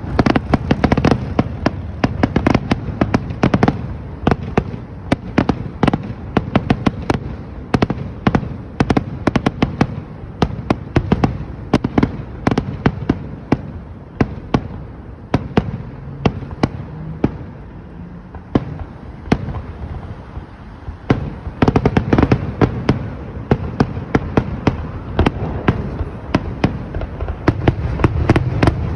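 Fireworks in a dense, rapid barrage: many sharp bangs and crackles a second, with deep booms underneath. The barrage eases slightly about halfway through, then builds back up near the end.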